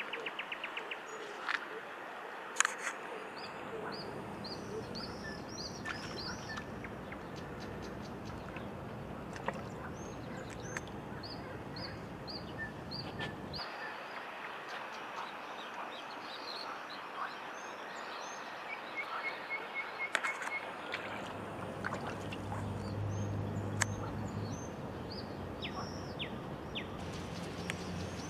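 Small birds chirping in short repeated notes over a steady outdoor background hiss. The background changes abruptly about halfway through, and a low hum comes in for a few seconds later on.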